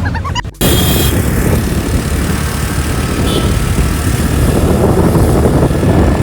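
Loud, steady rumble of a moving vehicle. It starts abruptly about half a second in, after a brief drop in sound.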